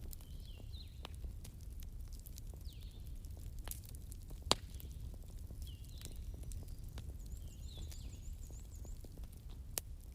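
Bonfire crackling over a low rumble, with scattered small snaps and two sharper pops, the louder one about halfway through. A bird chirps repeatedly in the background.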